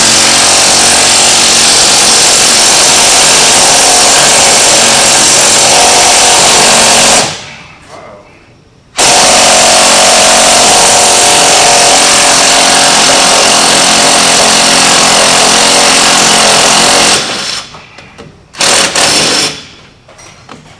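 Impact wrench hammering on a wheel hub mounting bolt in two long runs of about seven and eight seconds with a short pause between, then a few short bursts near the end.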